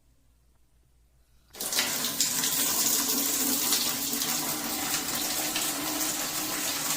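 Water turned on about a second and a half in, then running steadily through the water heater's outlet, with a faint low hum underneath.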